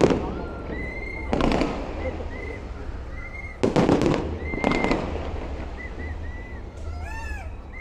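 Fireworks display going off: several loud bangs over the first five seconds, the loudest about four seconds in, with short high whistles in between and after.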